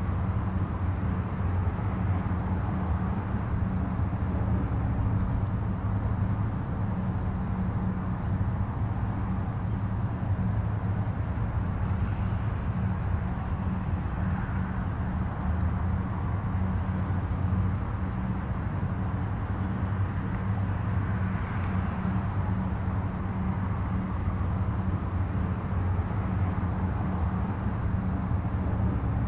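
Distant highway traffic: a steady low rumble of tyres and engines blending into one continuous wash, swelling slightly now and then as vehicles pass.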